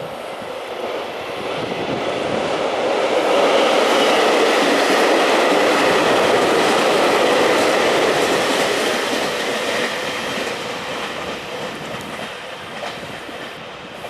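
Electric multiple-unit train running through the station. It grows louder to a peak about four to eight seconds in, then fades away.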